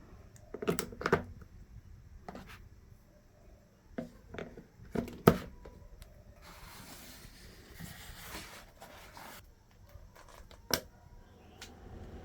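Scattered handling knocks and clicks, the sharpest about five seconds in and another near the end, with a few seconds of rustling in the middle.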